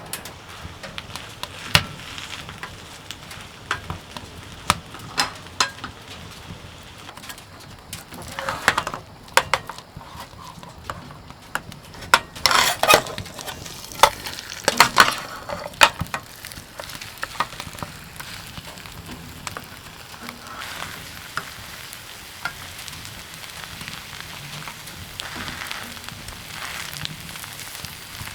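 Food sizzling in a pan, with many sharp clicks and scrapes of a cooking utensil against it. The clicking is densest about halfway through, and the sizzle grows a little stronger later on.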